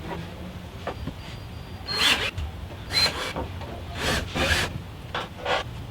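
A run of about six short rasping rubs or scrapes, each under half a second, over a low steady hum.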